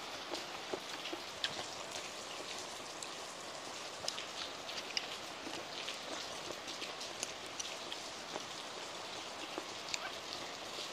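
Heavy rain pouring down steadily: a dense, even hiss with many sharp clicks of individual drops scattered through it.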